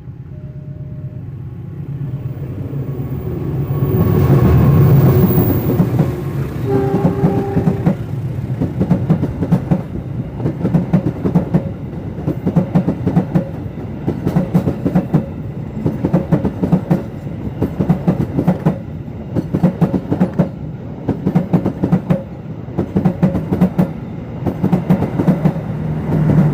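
Argo Dwipangga passenger train passing close by. The locomotive comes past loudest about four to six seconds in, with a short horn blast of about a second just after. Then the carriage wheels clatter over the rail joints in a steady, repeating rhythm of paired clicks.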